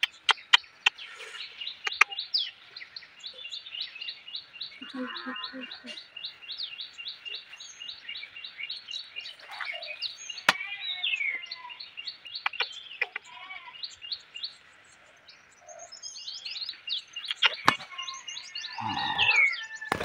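Small bird chirping in rapid, even series of short high notes, pausing briefly a few seconds before the end and then resuming. A few sharp clicks sound over it.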